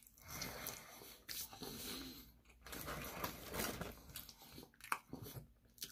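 Faint close-miked chewing of Korean fried chicken, irregular crunchy mouth sounds with breathing between them.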